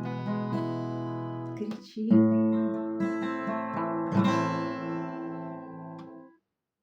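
Acoustic guitar playing the closing chords of a song: a fresh strum about two seconds in and another about four seconds in, each left to ring, and the sound dies away shortly before the end.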